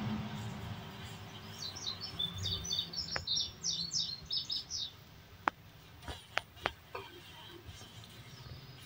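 A small bird twittering a quick run of short, high chirps for a few seconds, followed by a few sharp clicks over a faint low hum.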